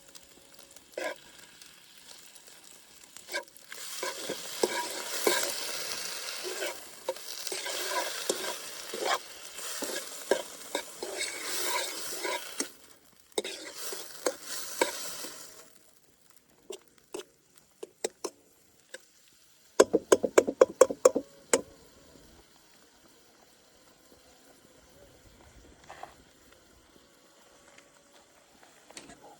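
Food frying in lamb tail fat, sizzling while a utensil stirs and scrapes in the pan for about twelve seconds, with a brief break midway. A few seconds after the sizzling stops comes a quick run of about eight sharp, loud knocks.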